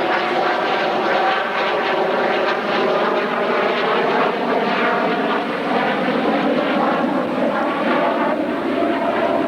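Fixed-wing aircraft engine drone in flight, loud and steady.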